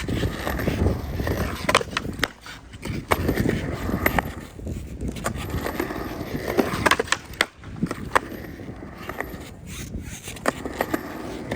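Skateboard wheels rolling on a concrete ramp, broken by several sharp clacks of the board and trucks hitting the coping during blunt rock attempts on loosened trucks.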